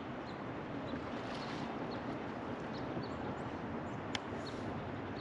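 Steady rush of river water around a floating raft, with some wind on the microphone. Faint short high chirps recur throughout, and a single sharp click sounds about four seconds in.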